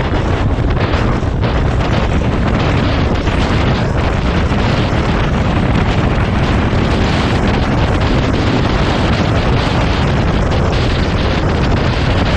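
Wind blowing hard across the microphone: a loud, steady rush with no pauses, heaviest in the low end.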